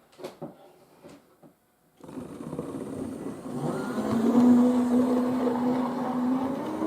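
Model diesel shunting locomotive, straight out of the box, starting to run on the track: a steady whine sets in about two seconds in and rises in pitch about four seconds in, after a few faint clicks.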